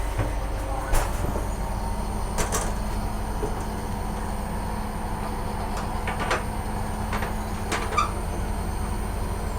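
Steady low hum of a stationary train coach, with four sharp knocks and clicks of doors and latches being handled, the loudest about a second in.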